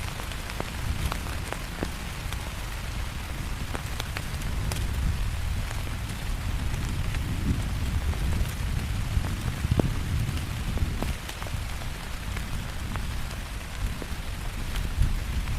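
Heavy rain falling steadily, with many separate drops striking close by. A low rumble runs underneath and swells a few times, including around halfway through.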